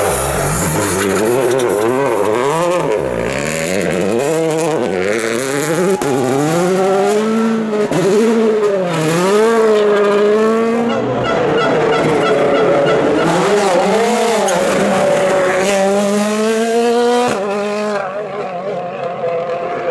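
Rally car engine revving hard, its pitch climbing and dropping again and again as the driver works through the gears and corners of the stage. It falls quieter near the end.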